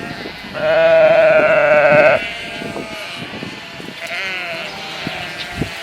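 A farm animal bleating: one loud, quavering call about half a second in that lasts about a second and a half, followed by a fainter, shorter call about four seconds in.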